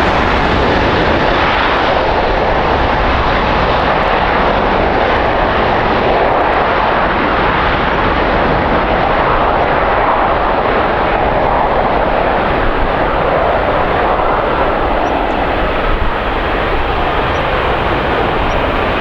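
Jet airliner's engines heard close up, a loud, steady rush of engine noise that holds throughout.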